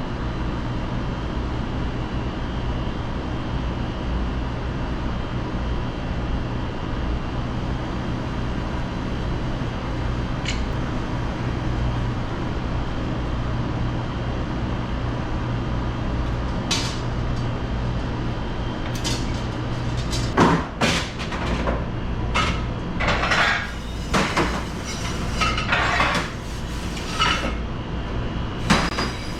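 Steady low hum of kitchen machinery, then from about two-thirds in a run of clattering dishes, pans and cutlery being handled, sharp knocks and clinks with short ringing. The hum falls away as the clatter starts.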